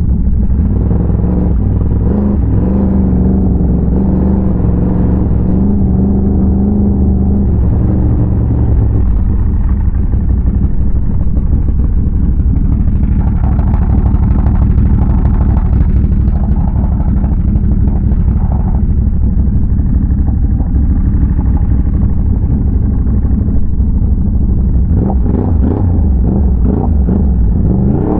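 ATV engine running as the quad is ridden along. The engine note holds a steady pitch for about the first nine seconds, then becomes less even.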